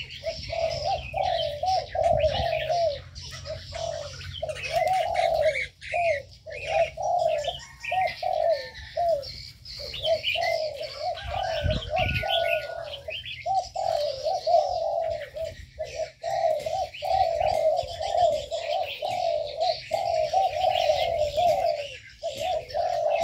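Several aviary doves cooing almost without pause, their low coos overlapping, while small birds chirp busily at a higher pitch.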